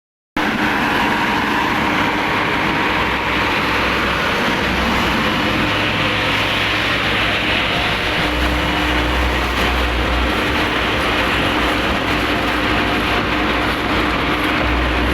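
Road milling machine running with a steady, heavy mechanical din and a constant hum, as it cuts ruts and humps from the road surface.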